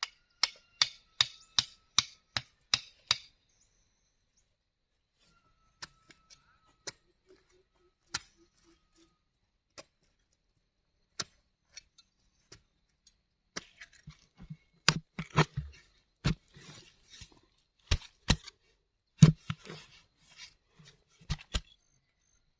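Hand-tool strikes on bamboo: a quick, even run of about eight blows in the first three seconds, then scattered single blows, and a denser, louder run of blows in the second half.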